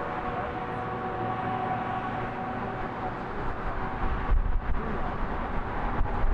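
A passing train running with a steady whine of several tones over rolling noise; the whine fades out about halfway through. Low rumbling surges follow in the second half.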